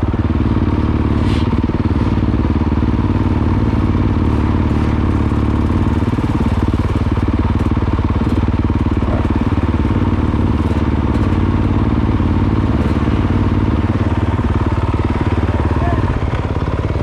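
Trail motorcycle engine running steadily at a constant note, with no revving.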